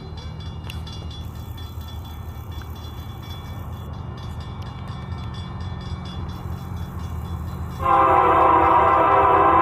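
Approaching train locomotive rumbling steadily and growing louder, then its air horn sounds loudly, a chord of several tones, about eight seconds in and keeps blowing.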